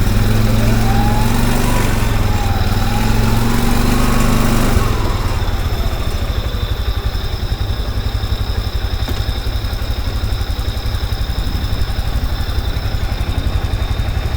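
Small vehicle engine idling, a little louder for the first five seconds or so, then settling to a steady idle.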